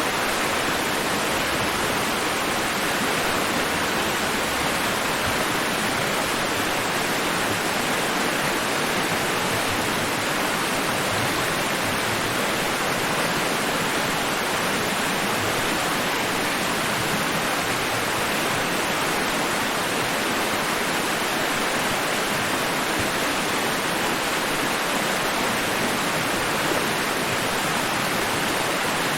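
Steady, even white-noise hiss, without the rise and fall of breaking waves.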